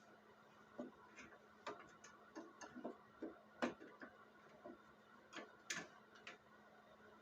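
Faint, irregular light clicks and taps of small hard parts or tools being handled, about two a second, over a steady low hum.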